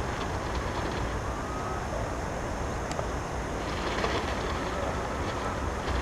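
Steady wind rumbling on the microphone with water rushing along a sailing boat's hull.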